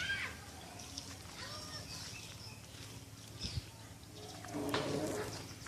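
Several short bird calls, with a louder call about four and a half seconds in.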